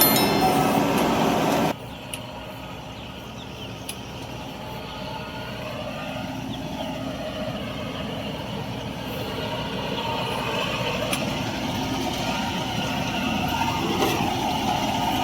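Combine harvester running steadily. The sound drops abruptly about two seconds in, then slowly grows louder as the machine comes closer.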